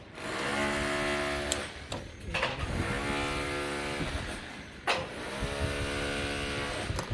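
A power tool runs in three bursts of about a second and a half each at a steady pitch, with sharp knocks in the short gaps between.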